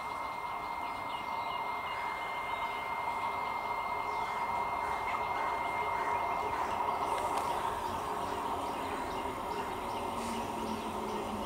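Electric multiple-unit local train approaching: a steady hum and running noise from the train, with birds chirping faintly.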